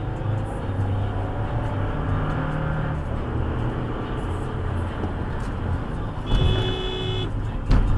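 Car driving with steady road and engine rumble. Near the end a held tone sounds for about a second, then a sharp loud thump.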